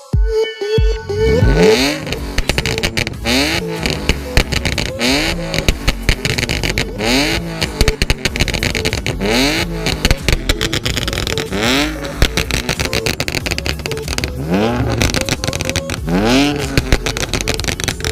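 BMW engine with a raspy exhaust revved in repeated quick blips, each one a rising pitch every second or two, with sharp exhaust pops and crackles (backfires) between them.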